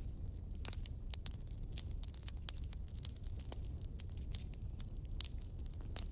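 Campfire crackling: burning wood gives off irregular sharp pops and snaps, several a second, over a steady low rumble.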